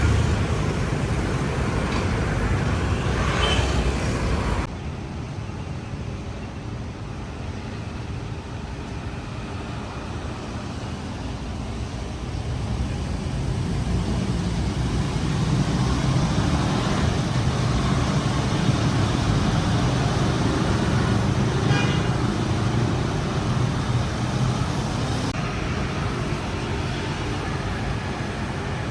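City road traffic: a steady wash of engine and tyre noise from passing vehicles. It drops suddenly about five seconds in, then swells again as heavier traffic passes.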